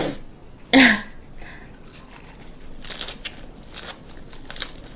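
Close-up chewing of a mouthful of raw mullet sashimi wrapped in a perilla leaf with a green chili and garlic ssamjang: a short vocal sound about a second in, then a run of quick, crisp crunches and wet mouth sounds as she chews.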